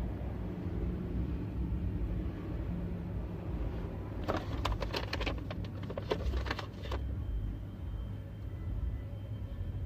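Steady low rumble inside a Holden VZ Commodore's cabin. About four seconds in comes a quick run of sharp clicks and taps lasting around three seconds.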